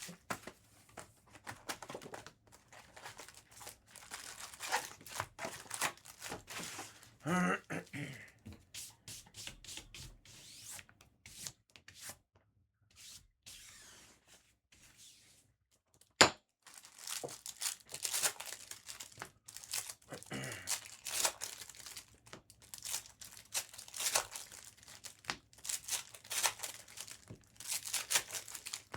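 Foil trading-card pack wrappers being torn open and crinkled, in irregular bursts of crackling. It goes quiet for a few seconds near the middle, and a single sharp click comes just after that.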